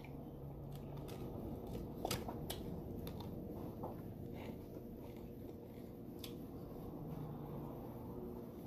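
Faint chewing of a bite of cheeseburger, with a few small mouth clicks over a steady low background hum.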